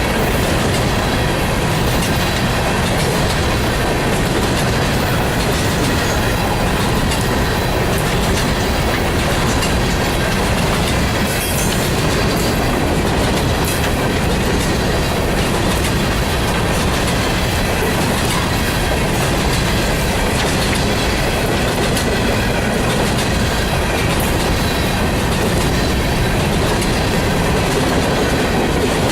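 Empty coal hopper cars of a freight train rolling past, steel wheels clicking over the rail with a faint wheel squeal, a steady, unbroken rumble.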